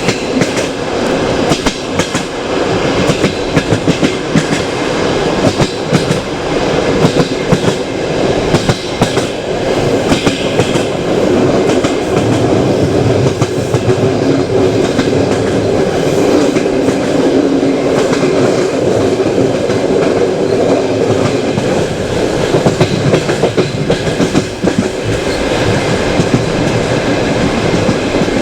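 Passenger train carriage running on the track, seen and heard from its window. Its wheels clatter over the rail joints, many sharp clicks over a steady loud rolling rumble.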